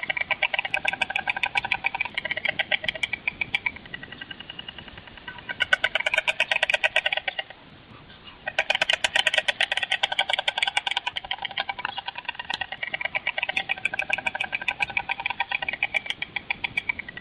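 White stork clattering its bill: a loud, rapid wooden rattle in long runs, with two short breaks about four seconds and about eight seconds in.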